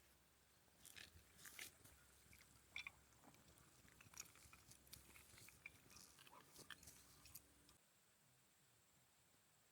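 Near silence, with faint scattered clicks and crackles through most of it that stop near the end.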